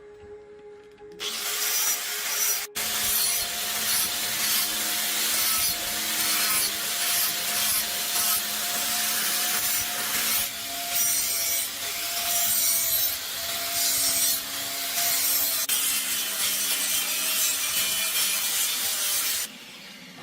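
Loud, rough rubbing and scraping noise of hand work on a surface, with a faint steady hum underneath; it starts about a second in and stops abruptly near the end.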